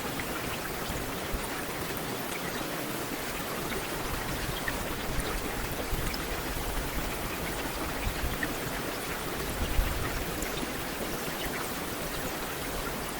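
Heavy rain falling steadily on a street: a dense, even hiss with scattered individual drop ticks, and one brief louder tap about ten seconds in.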